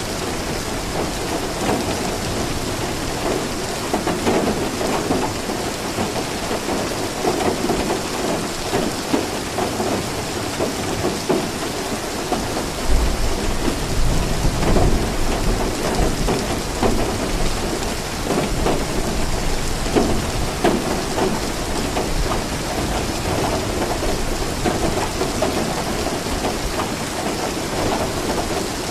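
Steady heavy rain pattering on a surface, with a low rumble of thunder swelling about 13 seconds in and fading a few seconds later.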